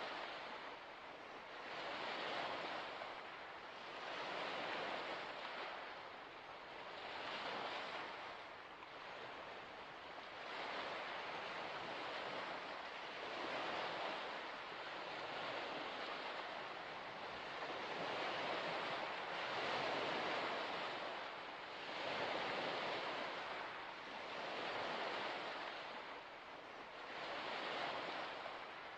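Waves washing in one after another, each surge of water noise swelling and fading every two to three seconds.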